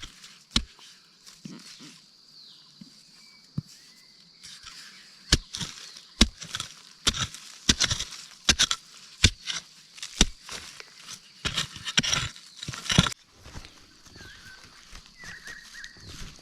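Irregular sharp knocks and taps, coming thickest and loudest in the middle, with a few faint bird chirps in between.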